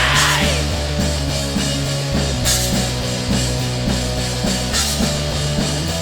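A rock band playing an instrumental passage: drum kit, bass and distorted guitar, with no singing.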